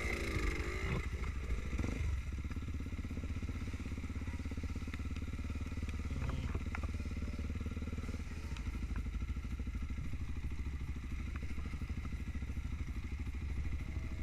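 Trail motorcycle engine running steadily.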